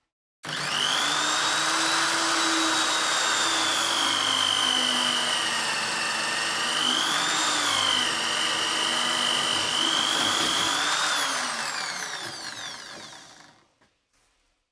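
Electric drill spinning a wood drill bit: the motor starts suddenly and rises to speed with a high whine. It runs steadily with a brief rise and dip in pitch around the middle, then slows with a falling whine and stops near the end.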